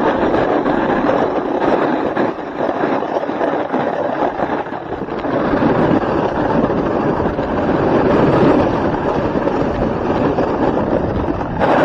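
Snowboard sliding and scraping over icy, hard-packed slope: a continuous rough scraping rush, easing for a few seconds and building again later.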